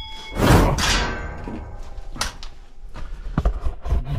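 A loud scraping clatter with metallic ringing about half a second in, fading over a second or so, then several dull thumps.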